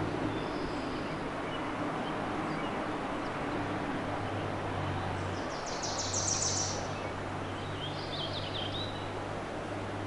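Forest ambience: a steady rushing hiss with a faint low hum beneath it. A songbird sings a fast high trill about six seconds in, then a shorter, lower phrase about two seconds later.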